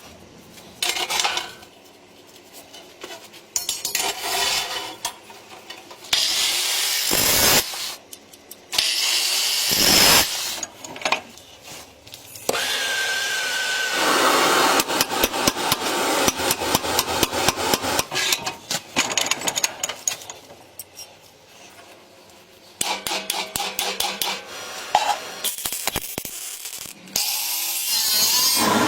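Hand tools working material in the workshop: runs of quick, even sawing and filing strokes, broken into short stretches that start and stop abruptly, with a brief steady whine partway through.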